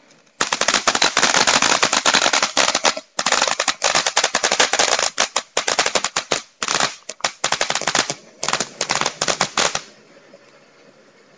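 Homemade firework of several small fountain fireworks packed into a plastic cup, burning with a loud, dense crackling and popping. It starts about half a second in, breaks off briefly around three, six and eight seconds in, and stops about ten seconds in.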